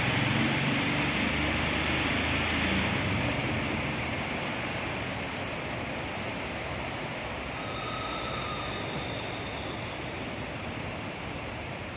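Steady rushing hiss of rain falling onto standing floodwater, with a low rumble through the first three seconds; the noise slowly grows fainter.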